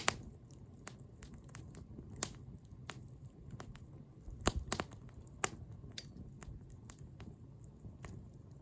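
Wood bonfire crackling: irregular sharp pops and snaps over a steady low rush, with a cluster of the loudest pops about four and a half seconds in.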